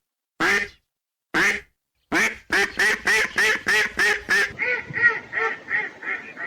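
Duck quacking: two single quacks, then a quick run of quacks at about three a second from about two seconds in, growing softer in the last two seconds.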